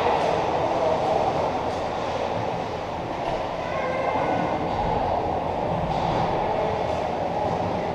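Steady, continuous noise like a moving vehicle, with faint high tones briefly near the middle.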